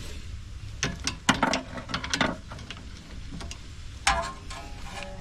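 Metal tools clicking and clinking while a sway bar stabilizer link nut is tightened: a quick run of irregular clicks, then one louder ringing metal clink near the end.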